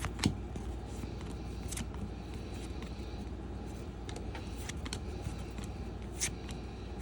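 Baseball trading cards being flipped through by hand, with scattered soft clicks and snaps as the cards slide over and tap against each other, over a steady low background hum.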